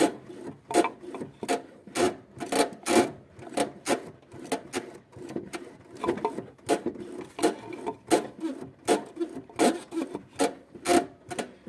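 Repeated short creaks from a 2007 Suzuki Swift's manual gearbox as the clutch pedal is pressed and released, one or two creaks a second. This is the gearbox creak whose cause the owner is trying to find.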